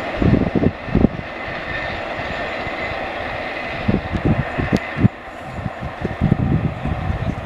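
Loaded car-transporter freight wagons rolling by on the rails, with irregular low thumps and a steady hiss that drops away about five seconds in as the end of the train pulls off into the distance.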